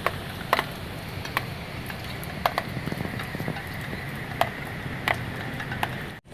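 Rain falling, with scattered drops ticking irregularly over a steady hiss.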